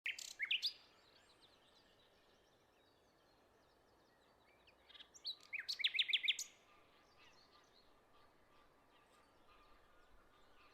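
Small birds chirping: a quick burst of calls at the very start and a second, louder run of rapid chirps around the middle, with faint chirps between.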